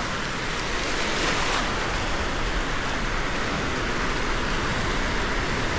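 Steady rushing noise of surf washing on a beach, swelling briefly about a second in.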